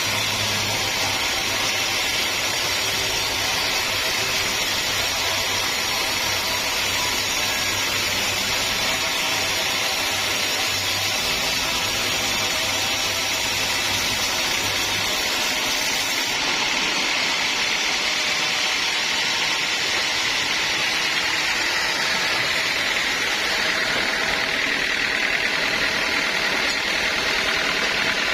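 Sawmill running steadily, its saw cutting through a teak log. The sound shifts about halfway through, and a high whine falls in pitch near the end.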